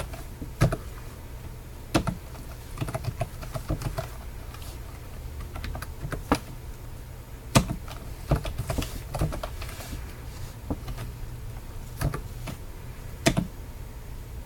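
Typing on a computer keyboard: irregular key clicks with short pauses and a few louder strokes, over a steady low hum.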